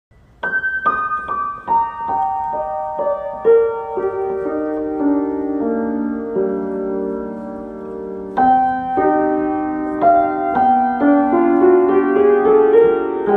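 Solo piano music: a slow line of sustained notes stepping downward, then a new phrase beginning about eight seconds in.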